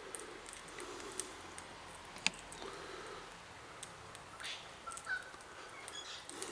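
Scattered light clicks and taps, one sharper than the rest about two seconds in, with a few brief, faint bird chirps in the second half.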